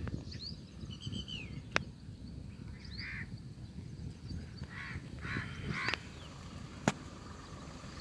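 Birds calling in the background: a few short chirping calls in the first two seconds, then harsh, scratchy calls about three seconds in and again around five to six seconds. A few sharp clicks and a low rumble run underneath.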